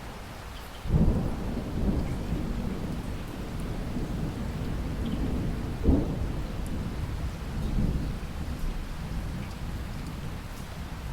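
Rain falling steadily while a roll of thunder breaks in suddenly about a second in, swells again with a sharper clap near six seconds, and rumbles on, slowly fading.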